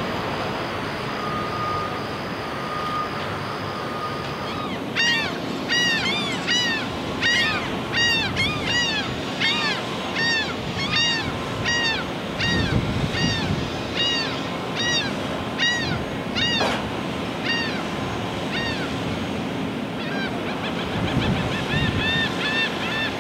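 A bird calling over and over in short rising-and-falling notes, about two a second, over steady outdoor noise and a low machinery hum. The calls begin about five seconds in, pause briefly, then return more faintly near the end.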